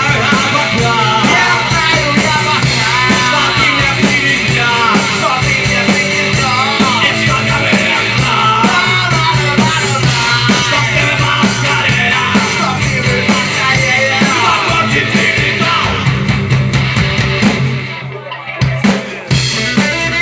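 Rock band playing a cover song with drum kit and a voice singing over it; the music drops away abruptly about eighteen seconds in, then sound returns briefly near the end.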